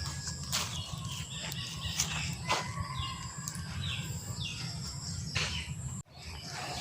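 Wild birds calling with short, falling chirps over a steady high insect drone. The sound cuts out abruptly for a moment about six seconds in.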